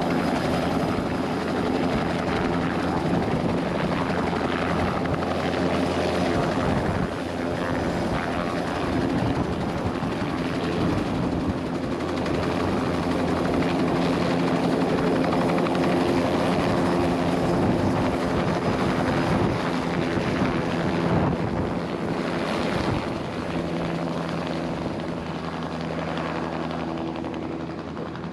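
Helicopter in flight: a steady drone of rotor and turbine with several held humming tones, shifting slightly a couple of times.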